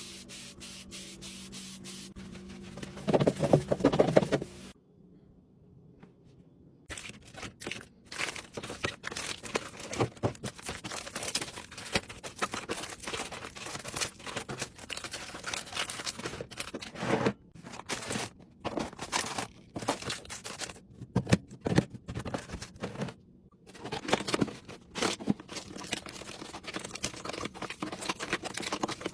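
Food packaging and containers being handled: a busy run of crinkling, tearing and scraping with many small clicks and knocks, broken by two short pauses.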